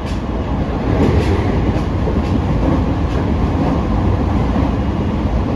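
Interior running sound of a JR East E501-series electric train's motor car at speed: a steady low rumble of wheels on rail with faint, irregular clicks from rail joints, swelling slightly about a second in.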